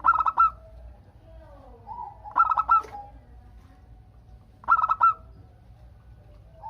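Zebra dove (perkutut) singing: three short phrases of rapid staccato coos, about two and a half seconds apart, with fainter dove calls between them.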